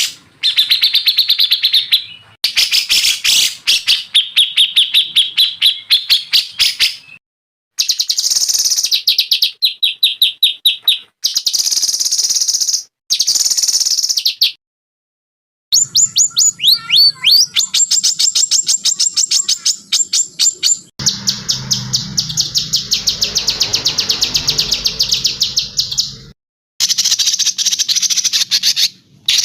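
Songbirds singing in turn: fast runs of sharp, high repeated notes and trills. They are separate recordings joined with abrupt cuts and short silences, as in a masteran track for training caged songbirds.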